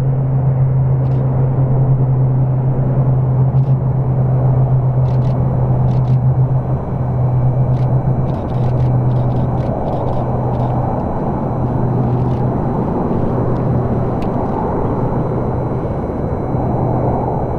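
Basler BT-67 turbine DC-3 departing under takeoff power from its two Pratt & Whitney Canada PT6A-67R turboprops: a loud steady propeller drone with a deep hum, growing a little fainter after several seconds.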